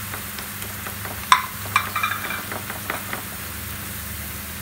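Flour-coated, par-boiled potato strips sizzling steadily in hot oil in a frying pan while a spatula stirs them, with several sharp clicks and scrapes of the spatula against the pan between about one and three seconds in.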